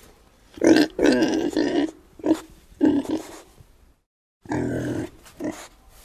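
An animal making short, low calls repeated several times, with a sudden gap of complete silence about four seconds in.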